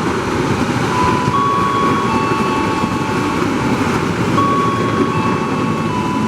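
KRL Commuter Line electric train running through the station: a steady rumble of wheels on rail, overlaid with thin steady whining tones that cut in and out and step from one pitch to another.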